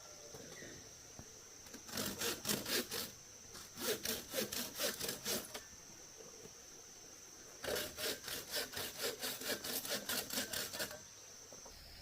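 Hand saw cutting with quick back-and-forth strokes, about three a second, in three bouts separated by short pauses. A steady high-pitched whine runs beneath.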